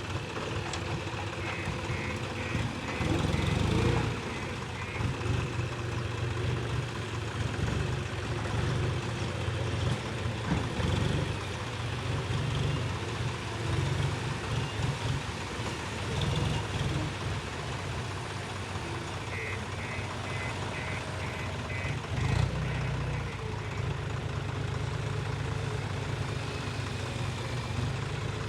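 Diesel engine of a JCB backhoe loader working on earthwork, its low rumble rising and falling with load. The reversing alarm beeps in a short run of regular beeps about a second in, and again about two-thirds of the way through.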